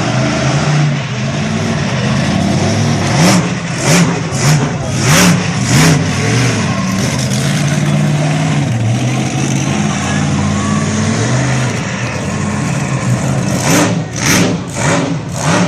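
Monster truck engine running with a steady low drone, revved in several short blips about three to six seconds in and again near the end.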